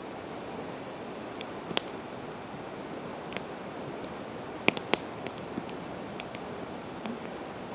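Campfire of split evergreen wood crackling: scattered sharp pops, the loudest a quick cluster of three about halfway through, over the steady rush of a river.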